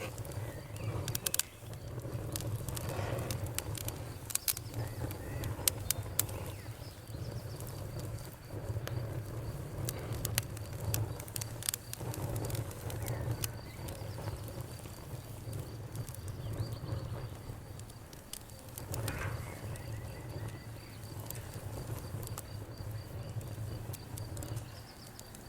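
Campfire crackling, with scattered sharp snaps and pops over a low steady rumble of burning wood.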